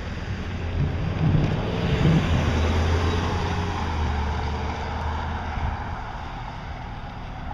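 A vehicle driving past on the road. Its tyre and engine noise swells about two seconds in, then slowly fades away, over wind on the microphone.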